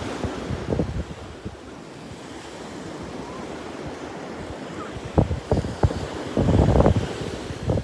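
Atlantic surf washing onto the beach, a steady hiss, with wind buffeting the microphone in short gusts between about five and seven seconds in.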